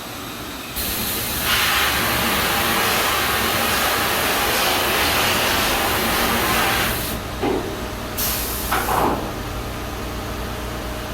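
A wet stone-grinding machine working a ski base: a loud hissing rush of water spray over the machine's steady hum. It swells about a second in and eases off around seven seconds, followed by two short hisses.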